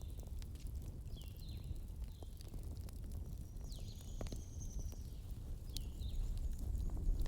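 Campfire with firewood crackling: scattered sharp pops over a steady low rumble of flames. Several short high chirps that fall in pitch, and one longer high note about four seconds in, sound over the fire.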